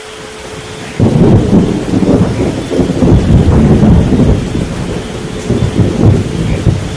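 A thunderclap breaks in suddenly about a second in and rolls on as a loud rumble, easing near the end, over steady rain and a steady 432 Hz tone.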